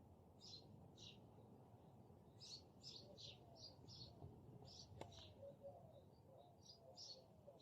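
Faint, repeated short high chirps of small birds, scattered irregularly, with a single sharp click about five seconds in.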